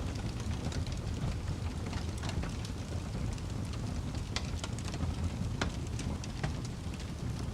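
Wood fire burning in a fireplace: a steady low rush of flame under irregular sharp crackles and pops.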